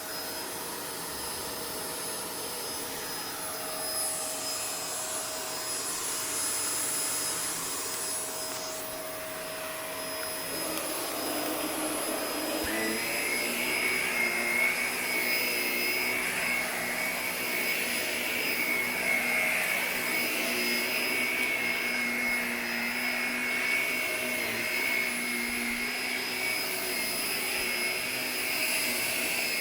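Vacuum cleaner running steadily. About twelve seconds in its sound changes and a higher whine comes in and holds.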